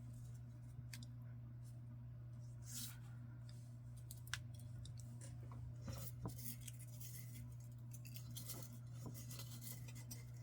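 Faint rustling of paper and small clicks and taps from handling paper and craft tools, scattered and irregular, a little busier in the middle, over a steady low hum.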